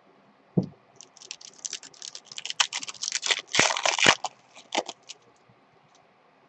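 A low thump, then a few seconds of dense, crackly clicking and crinkling, loudest about three and a half seconds in: a foil trading-card pack wrapper being torn open and handled.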